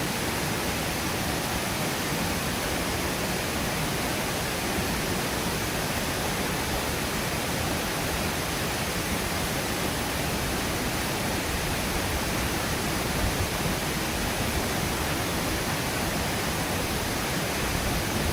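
Water rushing steadily at the head of a waterfall: an even, unbroken rush of falling water.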